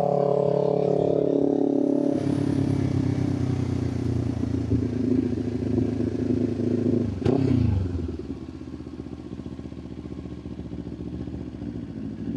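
Motorcycle engine slowing down with falling revs as the bike comes to a stop, a sharp click about seven seconds in as the revs drop further, then the engine idling more quietly.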